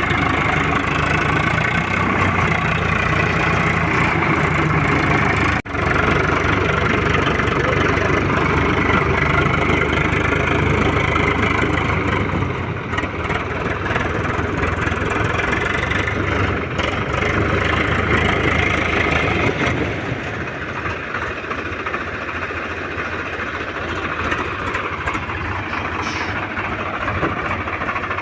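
Swaraj tractor's diesel engine running steadily. The sound breaks for an instant about six seconds in and is somewhat quieter over the last third.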